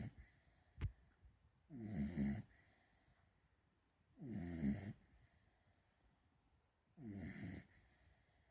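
Beagle puppy snoring in her sleep: three snores about two and a half seconds apart, each a pitched rattle lasting under a second, plus the end of one at the very start. A single short click sounds just under a second in.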